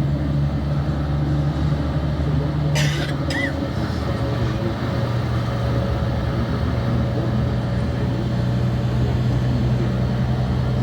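Road vehicle's engine and road noise heard from inside the moving vehicle: a steady low drone that drops slightly in pitch about three seconds in, with a brief hiss at the same moment.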